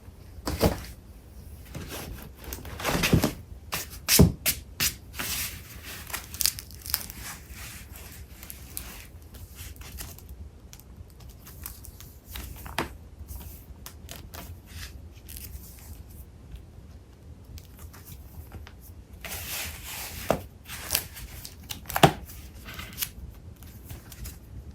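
Paper and cardstock being shuffled and handled: irregular rustling, crinkling and soft knocks of sheets and packages, busiest in the first several seconds and again near the end, with a quieter stretch in the middle.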